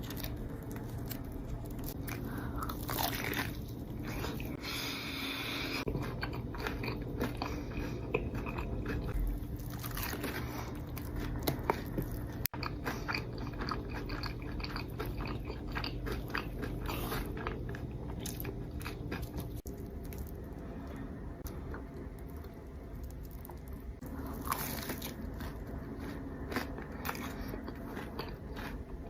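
Someone biting into and chewing a crunchy, batter-coated Korean corn dog, with many short crackly crunches.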